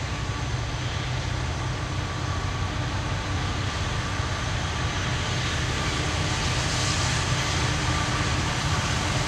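Distant diesel locomotives of an approaching train, a low steady rumble that grows slowly louder.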